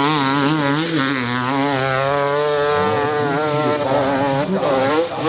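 Dirt bike engine revving hard under load, its pitch rising and falling as the throttle is worked, with a brief drop near the end.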